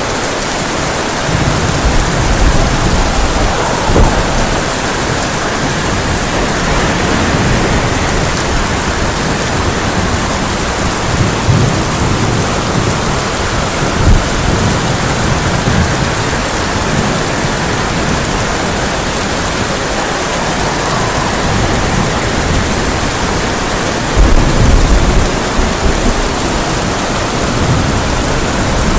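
Heavy rain falling steadily on a tin roof, with thunder rumbling on and off throughout; the loudest roll comes about 24 seconds in.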